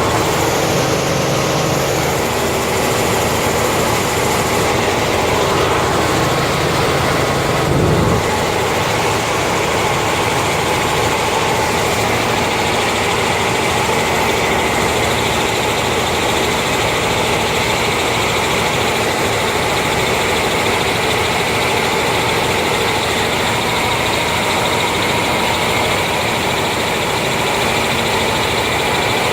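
Helicopter running steadily: a dense, loud engine and rotor noise with several steady held tones, swelling briefly in the low end about eight seconds in.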